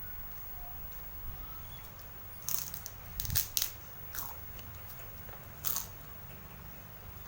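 Close-up mouth sounds of crunchy food being bitten and chewed: a run of sharp crunches about two and a half to four seconds in, and one more near the end.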